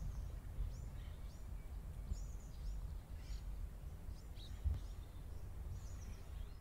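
Birds chirping in short, high calls, a few every second or so, over a steady low rumble.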